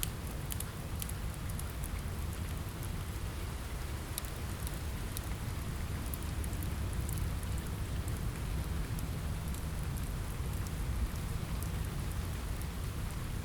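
Steady rain on a window over a low, even rumble, mixed with the scattered small crackles of a fireplace.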